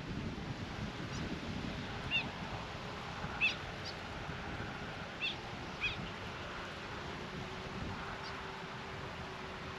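Birds chirping outdoors: about half a dozen short, high calls, bunched together in the first half, over a steady background hiss.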